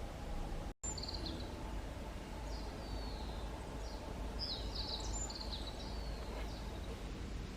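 Wild birds calling: a series of short, high chirps and quick sliding notes over steady low background noise, cut by a brief dropout just under a second in.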